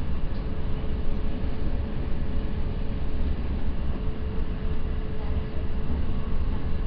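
Steady rumble of an NJ Transit Multilevel bi-level passenger car running at speed, heard from inside the cabin: wheels on rail with a constant faint hum over the noise.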